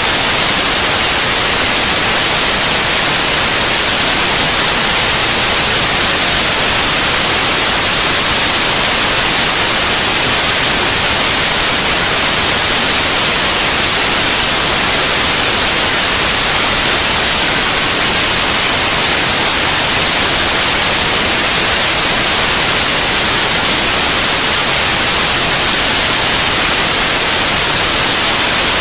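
Steady white noise: an even, unchanging hiss that is brightest in the high frequencies, played loud as a sleep aid for babies.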